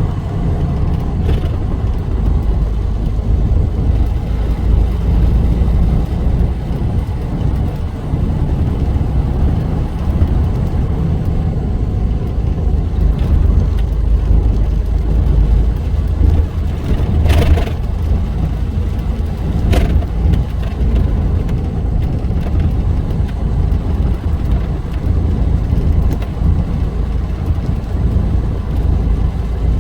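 Steady low rumble of a car driving on a highway: engine and tyre noise. Two brief sharper noises come a couple of seconds apart about two-thirds of the way through.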